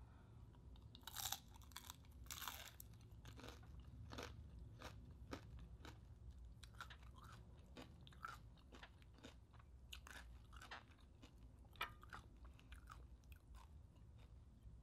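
Close-miked crunching and chewing of crispy deep-fried pork intestine (chicharon bulaklak), a run of sharp crackly bites, the loudest crunches about a second and two and a half seconds in.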